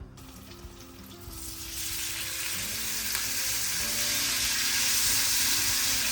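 Food sizzling as it fries in a pan, a steady hiss that grows louder over the first two seconds, with soft background music underneath.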